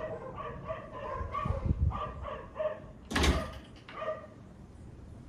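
A dog whining in a run of short, high, repeated whimpers. A loud sharp knock or bang comes about three seconds in.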